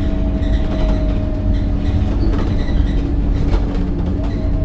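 Scania K270UB city bus running, a steady low engine and road rumble with a drivetrain whine over it. The whine fades out about two seconds in and comes back briefly near the end.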